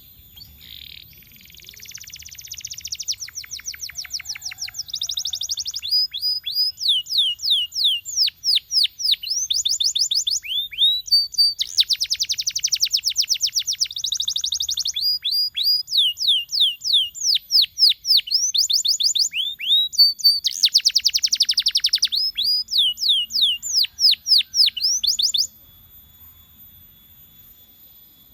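Domestic canary singing a long song of fast buzzy trills alternating with quick runs of repeated downward-sweeping whistled notes, then stopping abruptly a few seconds before the end.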